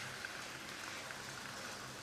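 00 gauge Hornby Gresley A4 model locomotive running at speed around the track: a steady rattling hiss of wheels on rails, with a low motor hum.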